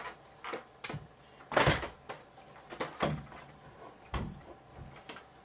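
Plastic NASCAR driving toy being handled: irregular hard plastic knocks and clunks, about half a dozen, the loudest about a second and a half in.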